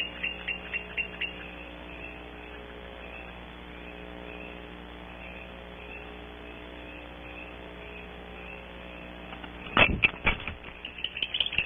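Barn owls twittering: a quick series of short high chirps, about four a second, that stops after about a second. Near the end, a few loud sharp knocks and scrapes, as of an owl landing in the wooden nest cavity, over a steady faint electrical hum.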